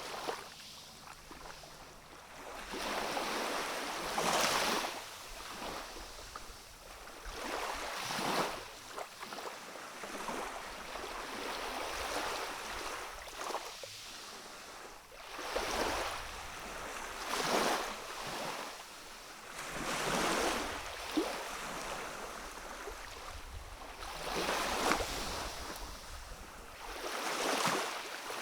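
Small waves of a calm sea washing in on a rocky shore. Each wash swells up and falls back as a hiss, a new one every few seconds.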